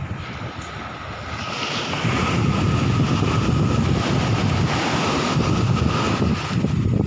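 Sea water washing and surging, with wind buffeting the microphone as a low rumble. The wash swells up about two seconds in and again about five seconds in.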